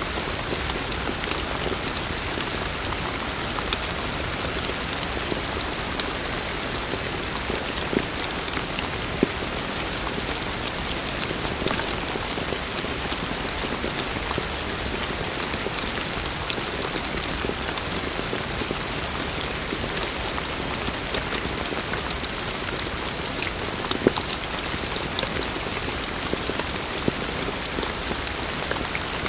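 Heavy rain falling steadily, an even hiss with scattered sharper drips and taps of individual drops.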